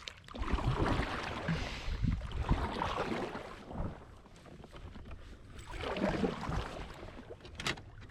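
Rushing water and wind noise around a fishing kayak on the water, loudest in two stretches, with a sharp click near the end.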